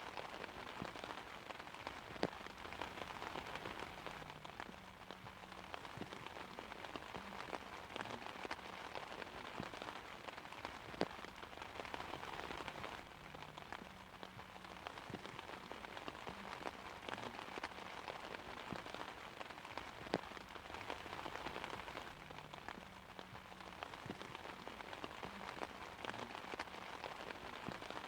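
Steady rain pattering on an umbrella, a continuous hiss dotted with sharper individual drop taps.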